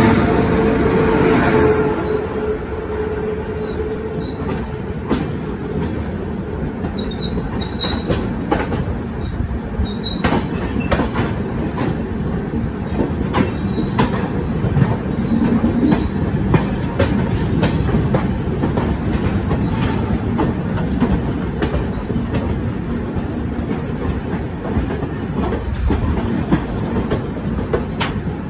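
Indian Railways passenger train passing close by at speed: a continuous rumble of wheels on rail with the clickety-clack of wheels over rail joints and many sharp clicks. The sound is loudest in the first two seconds, with a steady hum as the locomotive and front coaches go by.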